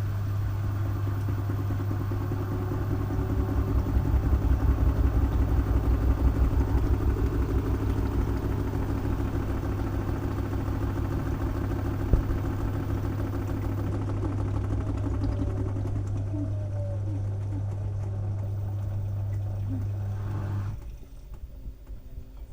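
LG washing machine running with a load of wet towels: a steady motor hum with a faint whine that glides in pitch and a rhythmic pulsing as the drum turns. The motor cuts off suddenly near the end.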